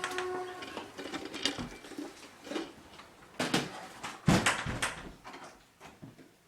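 A run of irregular knocks and clatters, loudest in two close clusters in the middle.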